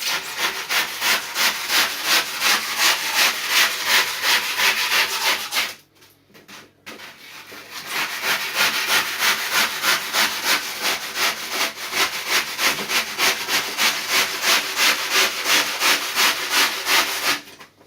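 Hand saw cutting through the cured foam of a surfboard repair in quick, even back-and-forth strokes, about three a second, with a short pause about six seconds in.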